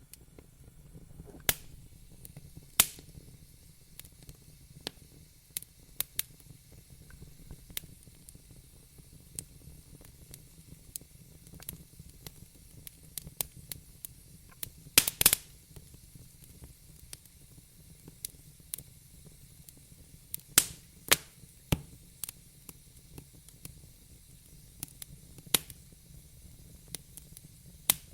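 Wood fire crackling in a fireplace: irregular sharp snaps and pops, a few much louder cracks among them, over a faint low rumble and hiss of the burning logs.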